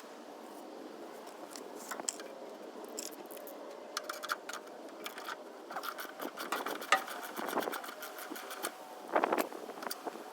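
Scattered light metallic clinks, rattles and scrapes, as of tools or small parts being handled, at irregular intervals, with a brief cluster of louder clatter near the end.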